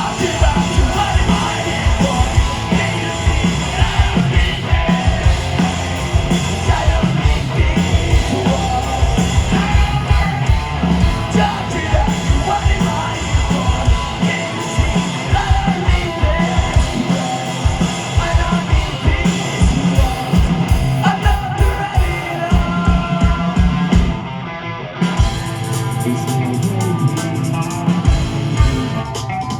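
Live post-hardcore rock band playing loud, with yelled singing over hard-hit drums and a full band. The top end thins out briefly about three-quarters of the way through.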